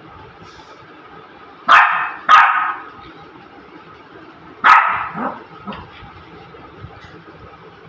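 Shih Tzu puppy barking: two quick barks about two seconds in, then a third a few seconds later.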